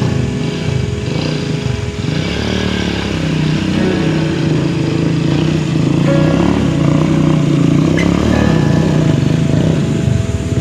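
Rusi Classic 250 motorcycle engine running under load, its pitch rising and falling as the throttle is worked.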